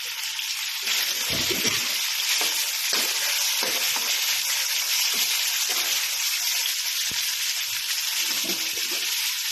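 Chicken pieces sizzling as they fry in hot oil, a steady hiss with a few short knocks now and then.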